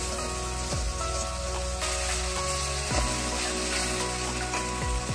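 Onion-and-spice masala sizzling as it fries in oil in an aluminium kadai while being stirred, under background music with a low swooping note about every two seconds.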